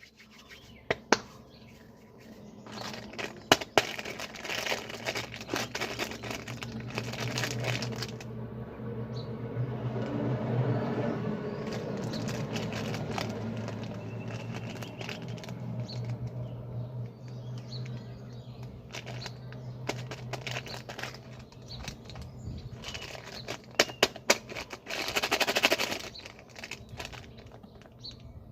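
Wood fire in a fireplace crackling, with scattered sharp pops and snaps over a steady low rumble of burning. There is a dense burst of loud crackling a few seconds before the end.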